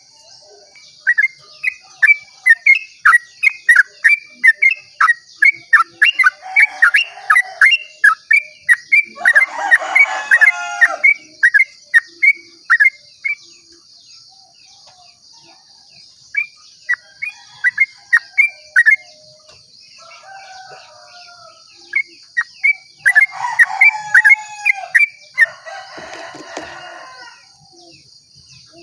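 Yellow-vented bulbul (trucukan) giving its 'ropel' song: long runs of short, sharp, down-slurred notes, about three a second, broken by pauses and by a few fuller warbled phrases near the middle and near the end. A steady high insect drone runs underneath.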